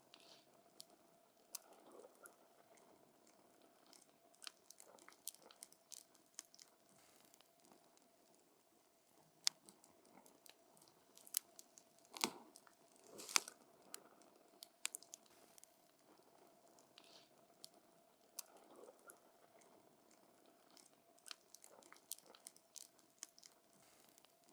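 Campfire of burning wood crackling, with irregular sharp snaps and pops, a few louder ones about halfway through.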